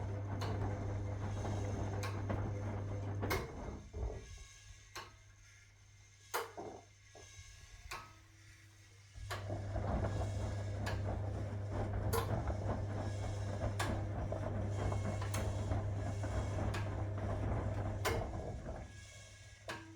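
1961 AEG Lavamat Noris washing machine's drum motor hums as it turns the drum, stops for about six seconds, then starts again and runs until near the end. Faint knocks from the tumbling load come throughout. This stop-and-go rhythm is the machine's wash tumble action.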